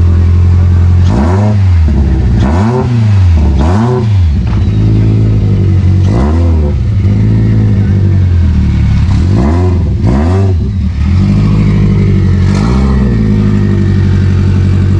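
Turbocharged Subaru STI's flat-four engine idling, blipped about seven times: quick revs that rise and fall back to idle.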